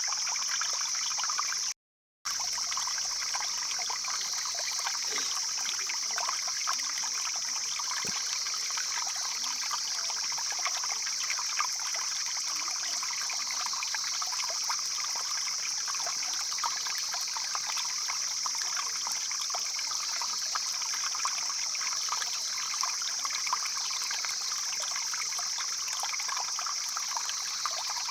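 Stream flowing, a steady rush of running water with a constant high hiss over it. The sound cuts out completely for a moment about two seconds in.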